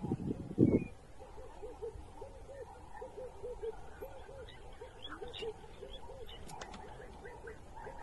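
Low hooting bird notes repeated steadily, often in quick pairs, with faint higher chirps in between. Two low thumps come in the first second; the second, under a second in, is the loudest sound.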